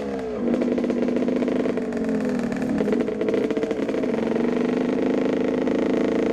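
Two-stroke motocross motorcycle engine running hard at high revs on the throttle, its pitch held with a couple of brief dips.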